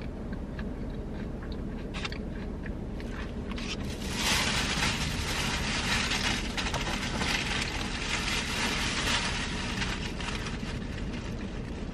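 Chewing breaded fried pickles close to the microphone. A few small clicks come first, then about four seconds in a steady, louder crunching starts and runs through most of the rest, over a low steady hum.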